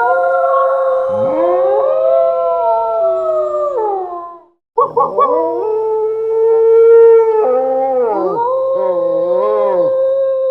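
Two voices howling together in long, wavering, drawn-out howls. They break off briefly about four and a half seconds in, then start up again.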